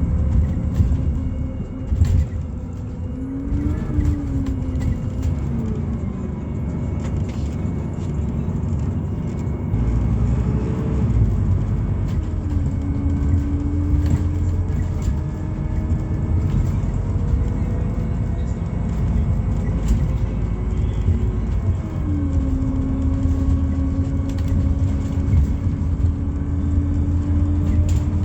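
Inside a moving Scania Citywide LFA city bus: its Scania OC09 five-cylinder natural-gas engine and ZF automatic gearbox run over a steady low rumble of road noise. A whine rises and falls several times as the bus speeds up and shifts gear, then holds steady.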